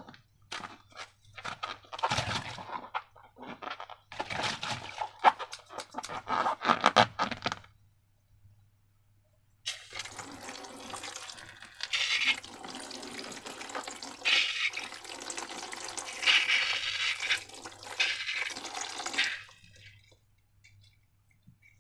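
Wet slime squishing and crackling in irregular bursts. After a short pause comes about ten seconds of continuous liquid pouring and gurgling, swelling several times before it stops.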